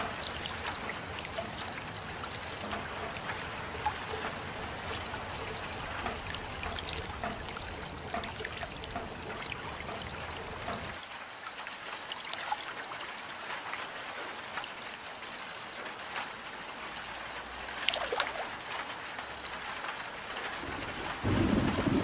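Rain falling in a steady patter, with single drops ticking and trickling water. About halfway the low background drops away, and near the end a louder low rush comes in.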